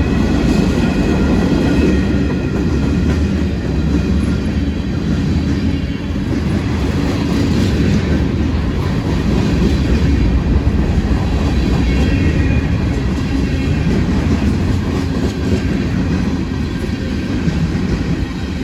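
Freight train cars rolling past on the rails, a loud steady rumble that keeps going without a break.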